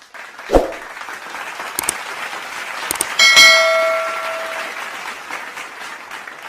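A sharp hit about half a second in, then a bell-like chime about three seconds in that rings and fades over a second and a half, over a steady hiss.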